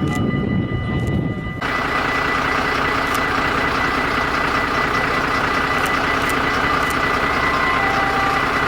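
A heavy engine idling steadily. It starts abruptly about a second and a half in, replacing a rougher, lower sound.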